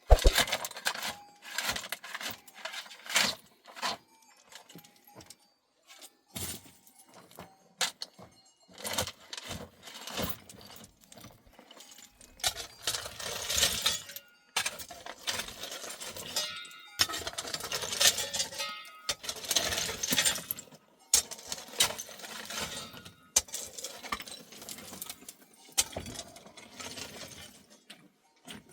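Irregular clinks, rattles and sharp knocks of small hard objects being handled, with a few brief scraping hisses.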